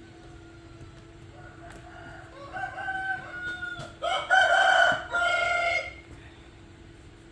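An animal calling: a few softer pitched calls build up, then two loud, long calls about four to six seconds in.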